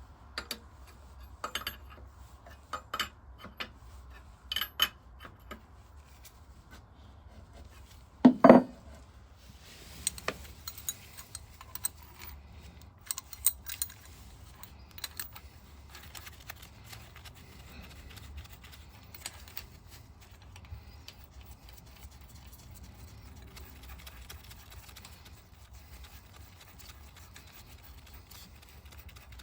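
Metal tools and small engine parts clinking and clattering as they are handled, with one louder knock about eight seconds in, then lighter scattered clinks.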